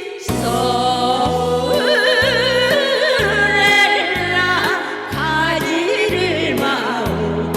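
Women singing a melody with wide vibrato over instrumental accompaniment with a steady bass line and drum beat.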